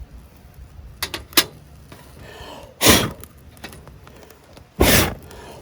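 A person blowing hard at a small camp stove flame that will not go out: three short, forceful puffs of breath, with a few light clicks of handling about a second in.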